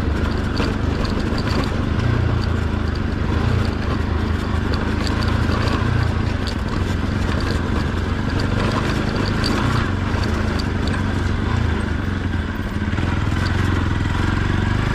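Motorcycle engine running steadily at low revs, with scattered light clicks and rattles over the hum.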